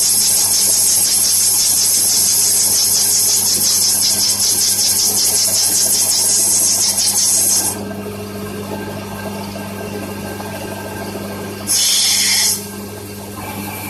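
Small CNC lathe turning, with the cutting tool making a loud, steady, high hiss against the spinning workpiece for about eight seconds. The hiss then stops, and a second short cut comes near the end. A steady low motor hum runs underneath.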